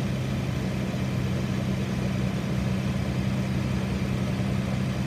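Toyota VVT-i V6 engine idling steadily with the hood open, about a minute after a cold start; it runs evenly and sounds pretty good.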